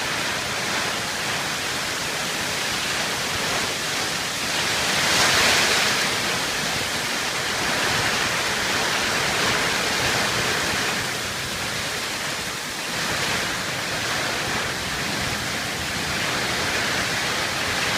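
Heavy storm rain and gusting wind: a steady rushing hiss that swells for a moment about five seconds in.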